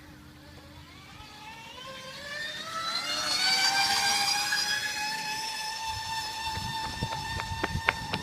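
Bicycle engine-sound module playing a synthetic race-car engine: the whine climbs steadily in pitch and gets louder, then holds at a high, nearly steady pitch. A run of sharp clicks comes in near the end.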